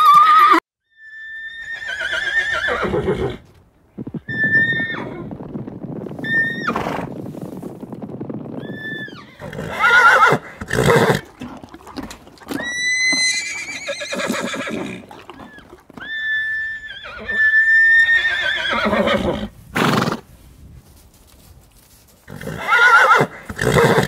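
Horses neighing and whinnying: a series of separate calls, each falling in pitch, with a higher-pitched whinny about halfway through.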